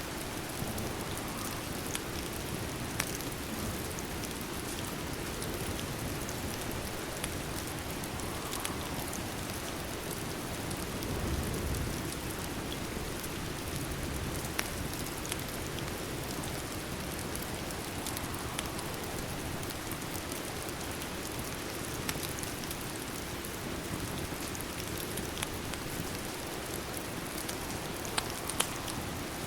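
Steady rain falling on a surface, an even hiss, with a few sharp clicks now and then.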